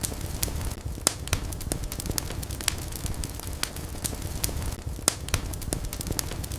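Wood fire crackling: frequent sharp pops and snaps over a steady low rumble of burning.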